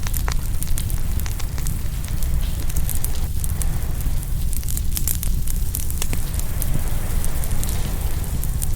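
Open wood fire crackling, with frequent irregular sharp pops and snaps, over a steady low rumble of ocean waves.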